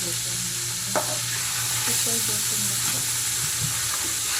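Chicken frying in hot oil: a steady sizzle, with a sharp click about a second in and a low steady hum underneath.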